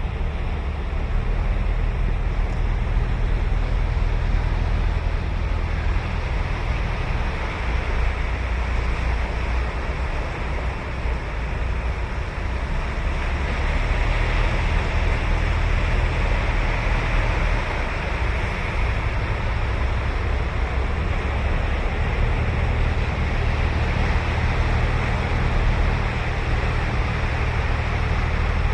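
Ocean surf breaking and washing on a sandy beach, a continuous rush with a deep low rumble that swells and eases slightly. Some wind buffets the microphone.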